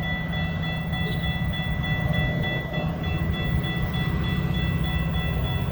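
Railroad crossing and gate bells ringing, high-tone electronic bells of the Safetran Type 3 or Siemens kind, steady high pitched tones with an even pulse, over the continuous low rumble of a Metra MP36PH diesel passenger train.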